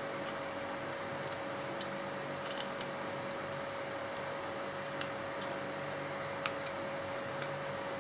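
Irregular light clicks and taps, about half a dozen, the sharpest one past six seconds in, over a steady hiss with a constant faint hum: small drill parts and tools being handled during disassembly.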